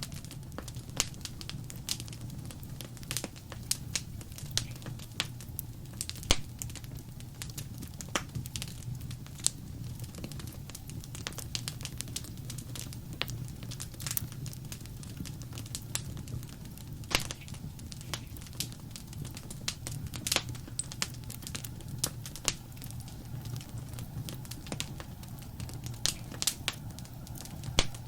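Wood fire burning in a fireplace: a steady low rumble of the flames with irregular sharp crackles and occasional louder pops from the burning logs.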